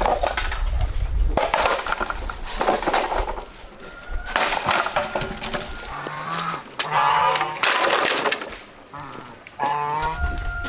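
A run of sharp cracks and snaps, with drawn-out, wavering fowl calls in the second half.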